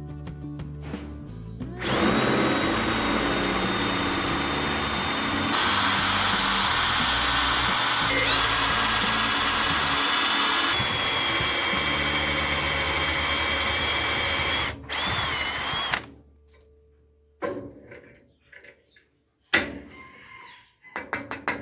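Power tool removing rust from the steel of a chisel. It starts about two seconds in and runs steadily for some fourteen seconds, its whine shifting pitch a few times, then cuts off. A few short knocks follow.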